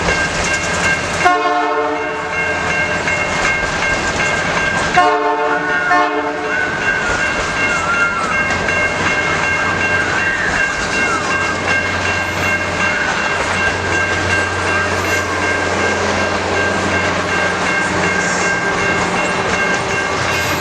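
Canadian Pacific locomotive horn sounding two blasts, a short one about a second in and a longer one about five seconds in, over the steady rumble of the passing train, with steady high tones running throughout.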